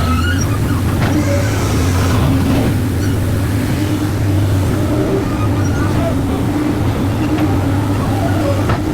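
Heavy diesel engine of a SANY excavator running steadily under load, with a constant low hum.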